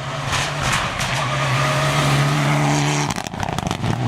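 Rally car engine running hard at a near-steady pitch, over a wash of tyre and gravel noise. About three seconds in the engine note breaks off into a quick string of cracks and pops as the throttle lifts, then picks up again.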